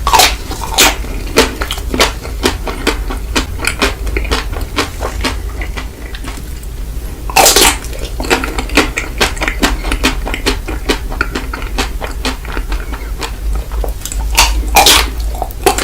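Close-miked ASMR eating: a person biting and chewing ice cream, with crisp, crackly mouth sounds. Louder bites come near the start, about halfway through and near the end, over a steady low hum.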